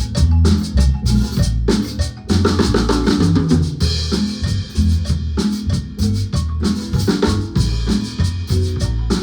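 Guatemalan marimba ensemble playing with a drum kit: snare and bass drum keep a steady, busy beat under the marimba.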